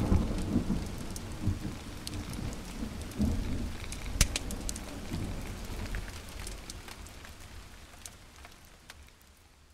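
Fireplace fire crackling, with scattered sharp pops over a low rumble, fading out gradually toward the end.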